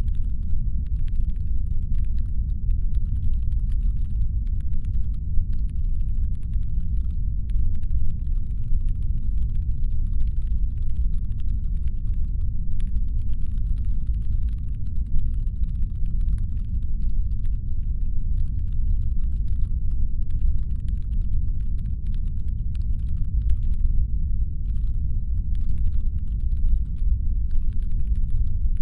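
Deep, steady brown-noise rumble, a synthetic spaceship-engine hum. Above it sits a much fainter, dense patter of tiny clicks that drops out briefly a few times.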